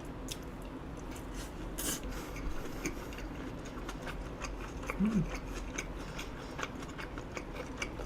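Close-up eating sounds of a person chewing a grilled-eel rice bowl: a run of small wet mouth clicks and chewing noises, with a sharper click about two seconds in and a brief low hum about five seconds in.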